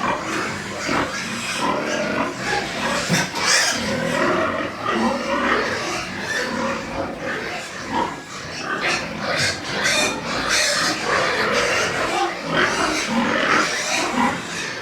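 A group of pigs grunting and squealing, many overlapping calls without a break.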